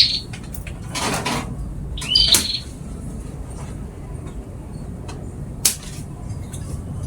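A small songbird (burung pipit) gives short rising chirps, one at the very start and one about two seconds in. There is a brief rustling burst about a second in and a few sharp clicks, the clearest near six seconds.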